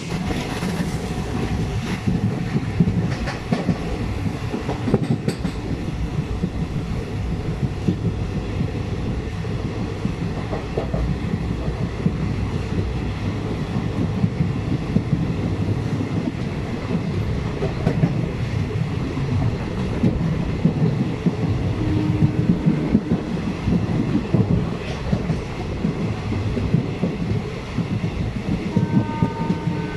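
Passenger train running, heard from inside a coach: a steady rumble of wheels on the rails with frequent short knocks and clacks.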